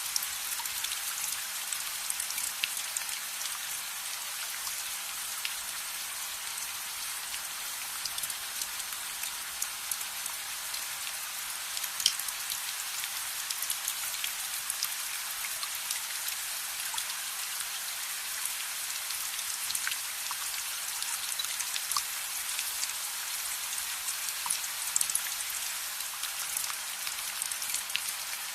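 Steady rain falling, an even hiss with many small sharp ticks and pops scattered through it; one louder pop about twelve seconds in.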